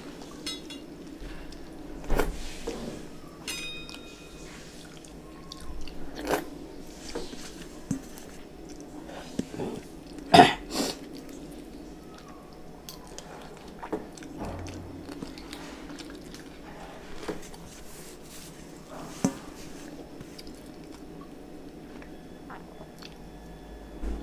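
A person eating rice by hand from a steel plate: wet chewing and mouth sounds as the food is mixed with the fingers and eaten. A few short sharp clicks break in, the loudest about ten seconds in.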